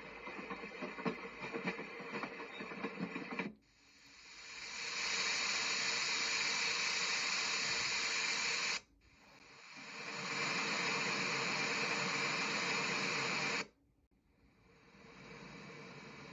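White noise machine playing its noise tracks in turn: a rough, crackly sound stops about three seconds in, then a steady hiss fades in and cuts off abruptly, a second steady hiss fades in and cuts off, and a quieter steady hiss begins near the end. These are the machine's white, pink and brown noise settings.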